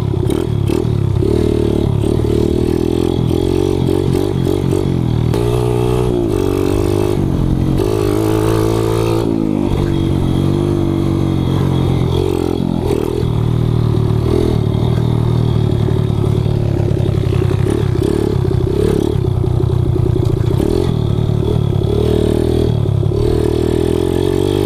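Kawasaki KLX110 pit bike, bored out to 165 cc with an FMF exhaust, being ridden: its single-cylinder four-stroke engine revs up and down continuously. Its pitch rises and falls with throttle and gear changes, most markedly a few seconds in.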